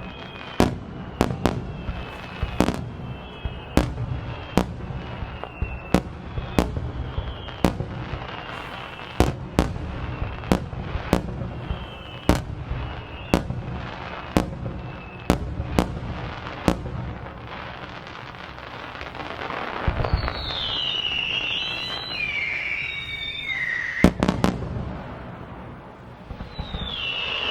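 Aerial fireworks bursting: a fast run of sharp bangs, about one a second or quicker, over a continuous low rumble. After about 17 s the bangs thin out and falling whistles take over, with one loud bang about 24 s in.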